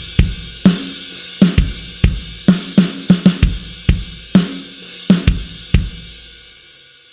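Sampled drum kit from the Blasting Room Signature Series Drums Kontakt library playing a short pattern of drum hits under a cymbal wash. The hits stop about six seconds in and the cymbal rings on and fades away.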